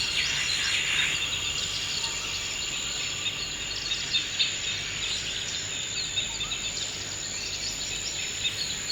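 Forest ambience: many short bird chirps and calls scattered throughout, over a steady high-pitched insect drone.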